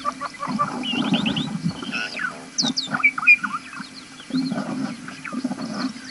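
Several wild birds chirping and calling over each other in quick, short notes. Low rumbling noise comes in twice, from about half a second in and again around four seconds in.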